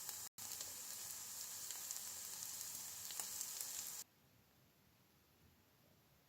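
Food sizzling and spitting in a hot frying pan: a steady hiss with small crackles. It drops out for a split second just after the start, then cuts off abruptly about four seconds in, leaving near silence.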